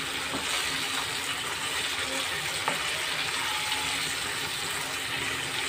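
Chicken pieces sizzling and simmering in masala and yogurt water in a pan: a steady hiss as the liquid cooks down, with a single light click partway through.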